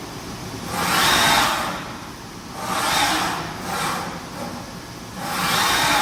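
DECKEL MAHO DMU 100 T five-axis machining centre running, a whirring rush that swells and fades four times with a faint whine in each swell.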